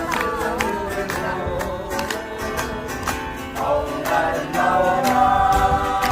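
Acoustic guitar strummed in a steady rhythm while voices sing a Korean folk song in a sing-along.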